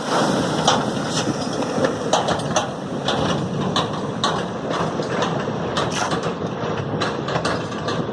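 Dump truck running with a steady rumble, overlaid by irregular sharp clacks and knocks, several a second.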